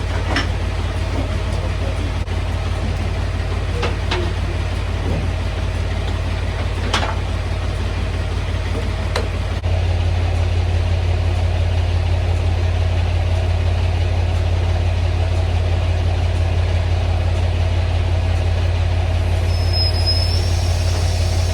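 A semi truck's diesel engine running at idle, a steady low rumble that gets louder about ten seconds in, with a few sharp clicks in the first half.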